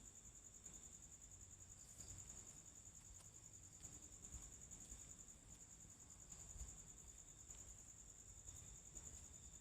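Faint, continuous high-pitched trilling of crickets, a rapid even pulsing that holds steady without a break.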